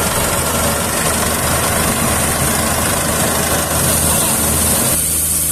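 Rice combine harvester's engine running steadily under a loud hiss from the working machine. About five seconds in, the hiss drops away and the engine hum carries on.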